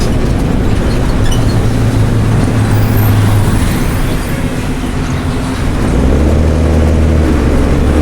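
Mercedes-Benz OM366LA turbo-diesel inline-six of a city bus, running loud through an open, straight-piped exhaust. It pulls at a steady pitch, eases off about four seconds in, then pulls again on a lower, deeper note from about six seconds.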